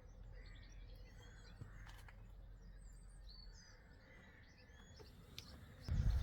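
Faint outdoor birdsong: scattered small chirps and calls over quiet background noise, with a louder low rumble coming in near the end.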